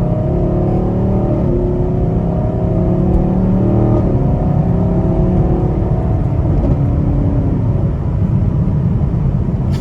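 Chevrolet Camaro SS's 6.2-litre V8 pulling under acceleration, heard from inside the cabin. The engine note climbs and steps down several times as the automatic shifts up through the gears.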